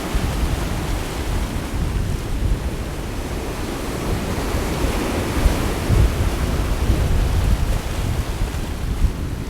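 Sea waves washing on the shore with gusting wind buffeting the microphone as a low, uneven rumble.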